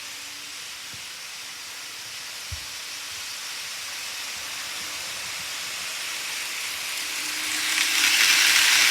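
Model train running on its track: a steady hiss of wheels on the rails with a faint motor hum, growing louder about three quarters of the way through as the train comes close.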